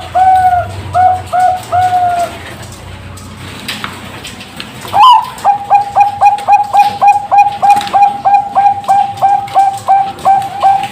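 Zebra dove (Bangkok-type perkutut) singing: a rapid series of short, evenly spaced coo notes, about three a second, that pauses after about two seconds and resumes about five seconds in with a brighter rising opening note followed by another long, even run of coos.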